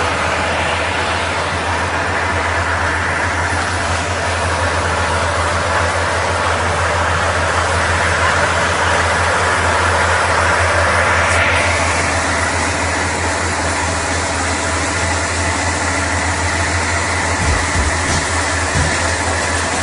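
A vehicle engine running steadily, a low drone under a constant hiss, with a slight shift in the sound about halfway through.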